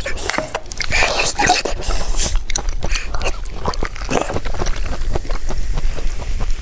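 Close-up chewing and mouth sounds of a person eating, with many quick wet clicks, and a metal spoon and fork clicking and scraping on a plate.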